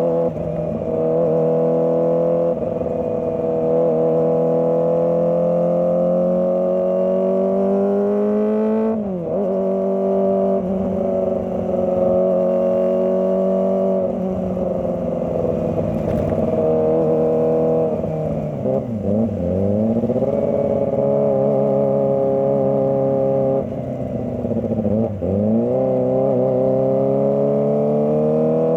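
Kawasaki ZX-25R's 250 cc inline-four engine pulling under way, its pitch climbing slowly as the bike gathers speed. Sharp drops in revs about nine seconds in and again around nineteen and twenty-five seconds in, each followed by a fresh climb as the throttle is rolled back on.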